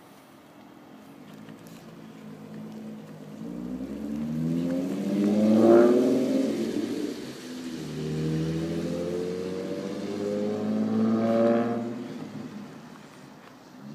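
A car engine droning low, then rising and falling twice: loudest about six seconds in and again near the end.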